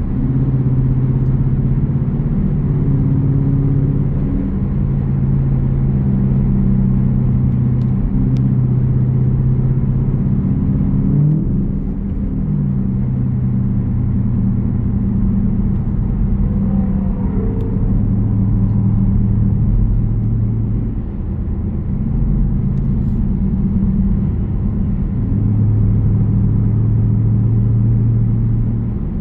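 Jeep Grand Cherokee's 5.7 Hemi V8 exhaust rumbling while driving, a steady low drone that shifts pitch a few times as the revs change. About twelve seconds in, the pitch briefly rises and falls.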